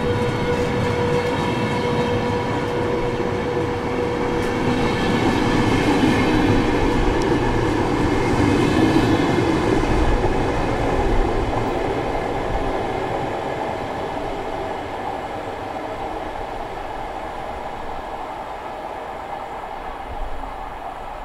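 VR double-deck InterCity train pulling away from the platform, with its wheels running on the rails as the carriages pass close by. Steady tones at the start soon sink under the running noise. It is loudest about six to eleven seconds in, as the driving trailer goes by, then fades steadily as the train moves off down the line.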